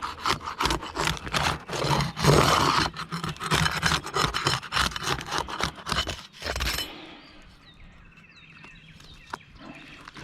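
Brittle roof shingles being pried open and worked by hand, a dense run of scraping, crackling and tearing that stops about seven seconds in.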